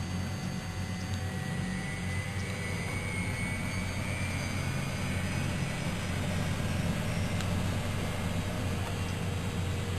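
Miele Novotronic W120 washing machine running with a steady low hum and a rushing noise, a faint higher whine rising slightly about two to five seconds in.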